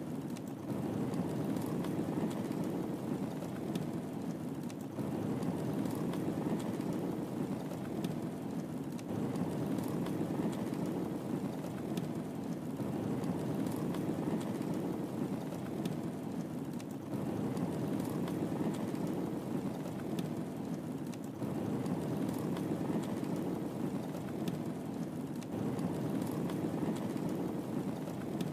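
Wood fire crackling in a fireplace: a steady low rushing of flame with scattered small sharp crackles and pops. The texture repeats in a loop about every four seconds.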